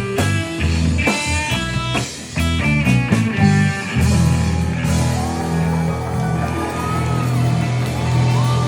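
A live rock band with electric guitar, bass and drums: quick guitar runs punctuated by drum hits, then, from about four seconds in, a long held chord over a steady bass with bending guitar notes on top.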